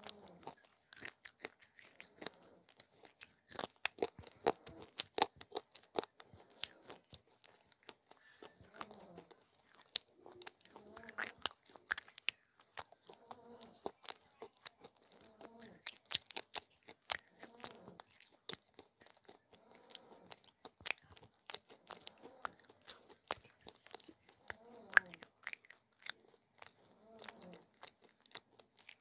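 Close-miked crunching and chewing of brittle baked clay: many sharp, crisp crunches in quick, uneven succession, with softer wet mouth sounds between them.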